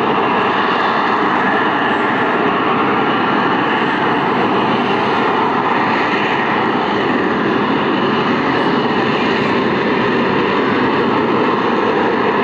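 Aircraft in flight, its engine noise loud and steady.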